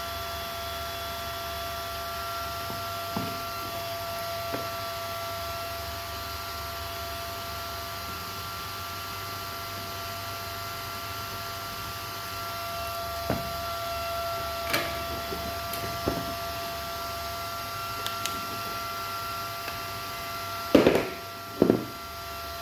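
A steady electrical whine made of several held tones. Occasional light knocks of handling sound over it, and two louder clunks come shortly before the end.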